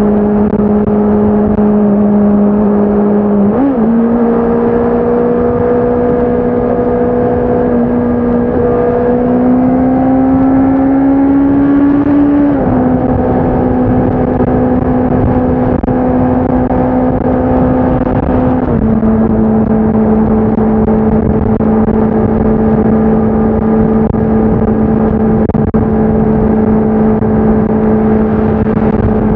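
Honda CBR650R's inline-four engine and exhaust running under way. The engine note steps up about four seconds in and climbs steadily for a few seconds, then drops suddenly twice, once near the middle and again a little later, before holding a steady pitch.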